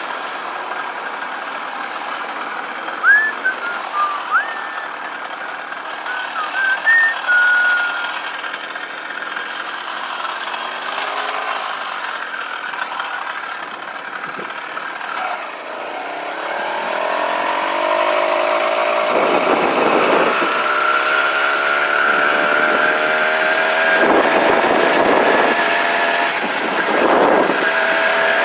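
Gasoline engine of a motorized bicycle running while riding, with wind rushing over the microphone; from about halfway through, the engine speeds up and its pitch climbs, and the wind buffets harder. A few short high squeaks a few seconds in.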